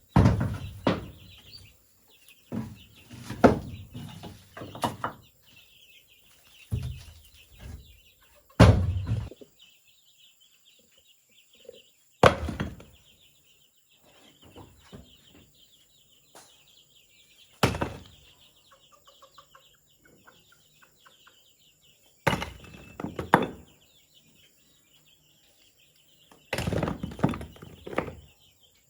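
Irregular heavy thuds and knocks, in short clusters every few seconds, from bamboo being worked. A steady high chirping runs behind them.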